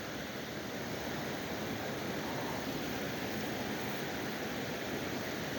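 Steady rush of water pouring over a small creek dam.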